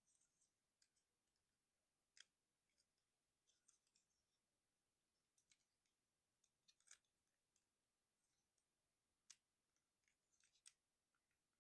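Faint, scattered clicks of a Transformers Titans Return Misfire figure's plastic parts being moved and snapped into place during its jet-to-robot transformation, a few sharper clicks standing out among softer ticks.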